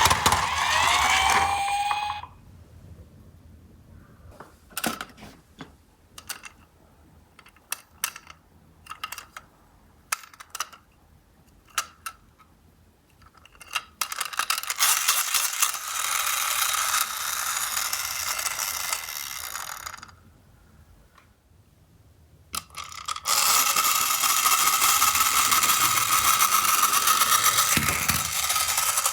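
Toy minicar ambulance's electronic siren wailing, cutting off about two seconds in, then a run of small plastic clicks and knocks. Twice after that, in the middle and again near the end, there is a steady whirring of a toy car's small geared mechanism running for several seconds.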